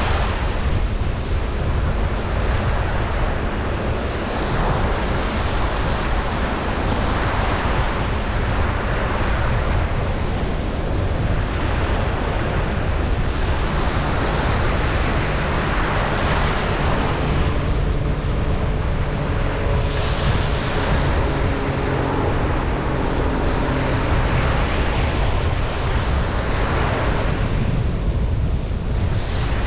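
Ocean surf breaking on a beach, the wash swelling and easing every few seconds over a constant low rumble.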